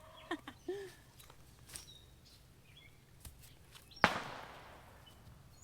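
A few short clucking calls from poultry in the first second, amid faint rustling and clicks of handling in the garden soil. About four seconds in comes a single sharp knock, the loudest sound, with a brief hissing trail.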